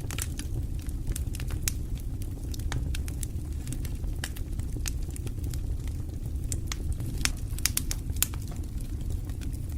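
Wood fire burning in a fireplace: a steady low rumble of flames with irregular sharp crackles and pops, a few louder pops near the end.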